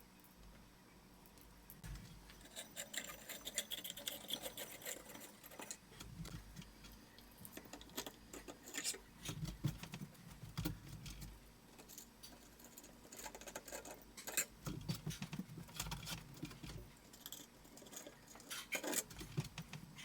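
Light shades being taken off a ceiling fan's light kit by hand: small clinks, taps and rattles of handling, coming in irregular clusters.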